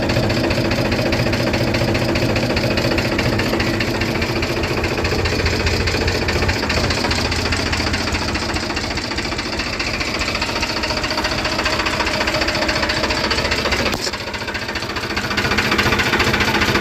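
Mahindra Swaraj 735 tractor's three-cylinder diesel engine running steadily. Its note dips briefly about fourteen seconds in, then picks up again near the end.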